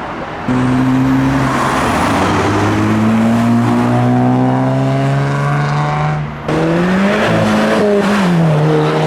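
Car engine accelerating hard, its note rising steadily for several seconds, breaking off briefly about six seconds in as it shifts up a gear, then pulling again.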